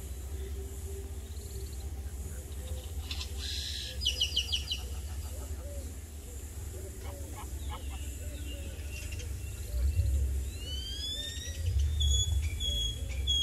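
Small birds chirping: a fast run of high chirps about four seconds in, then rising whistled calls and short high notes near the end, over a steady low rumble that swells twice.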